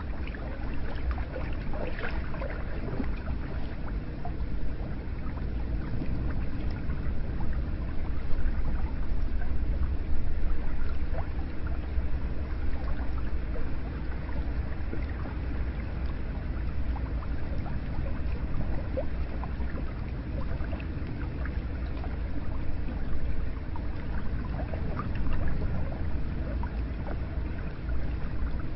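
Hot spring water pouring steadily into a bath, a continuous flow with many small splashes and drips.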